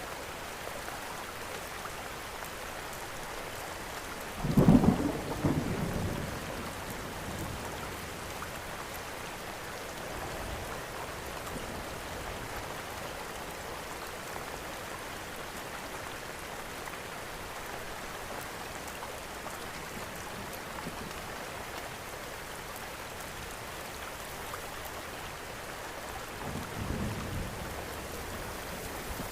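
Steady rain falling, with two low rolls of thunder: a loud one about five seconds in that fades over a couple of seconds, and a fainter one near the end.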